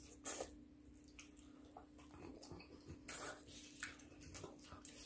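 Faint wet chewing and lip-smacking of people eating fried chicken, in irregular short smacks, over a faint steady hum.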